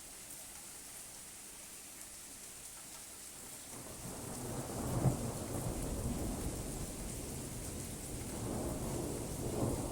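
Steady rain falling, with a roll of thunder that builds about a third of the way in, peaks with a sharp crack about halfway, and rumbles on with a second swell near the end.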